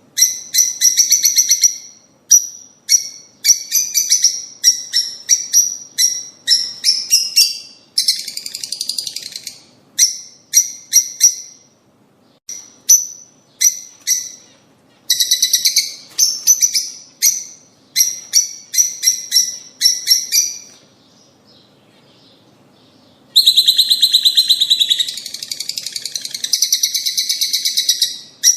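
A flock of rosy-faced and Fischer's lovebirds calling: loud, sharp, shrill chirps repeated about twice a second. The calls break off briefly near the three-quarter mark, then come back as a longer unbroken stretch of chattering.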